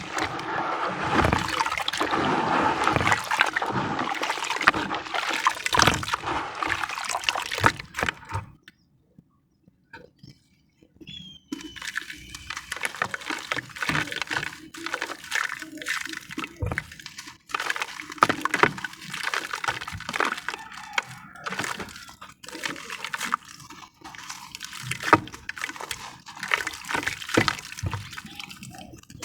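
Sand-cement discs crumbling in water: a dense wet crackle of many small cracks and sloshes, which stops for about three seconds partway through, then comes back as sparser wet crackles and clicks as the soaked cement is worked into a paste.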